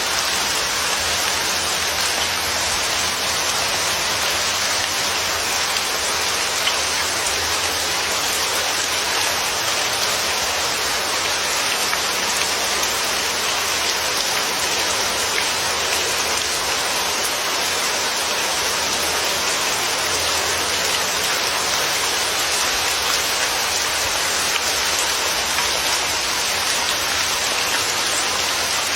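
Steady, even rain falling on a surface, with no changes or pauses.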